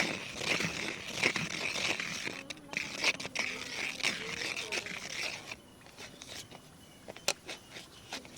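Scratching over the body of a big camera: a dense run of rapid scratches for about five and a half seconds, then scattered light taps and clicks, with one sharper click about seven seconds in.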